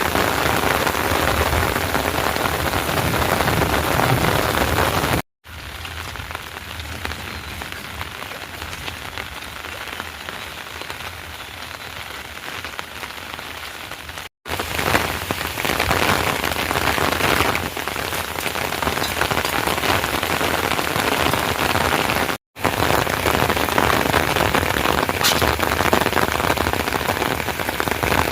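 Heavy rain falling, a dense steady hiss. It cuts out abruptly three times, and from about 5 s to 14 s the rain sounds lighter and quieter.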